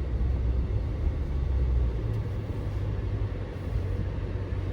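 Chrysler 300's swapped-in V8 and road drone heard from inside the cabin as the car brakes to a complete stop, the low drone changing about two seconds in. The brakes stop without any squeal.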